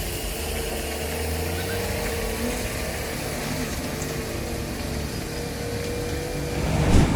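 Truck engine running at a steady pitch, a low drone with a higher tone held level above it; it grows louder near the end.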